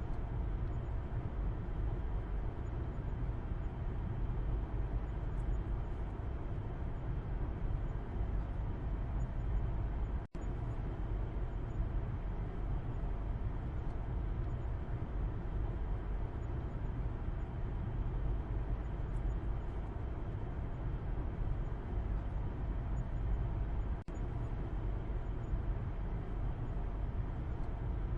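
Car interior road noise heard from the back seat: a steady low rumble of tyres and engine with a lighter hiss above it. It cuts out for a split second about ten seconds in, and again more briefly near the end.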